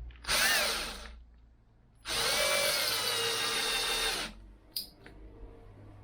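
Power drill drilling into a broken-off steel bolt, running in two bursts with a whine: a short one near the start, then a steadier run of about two seconds from about two seconds in. The bolt is very hard.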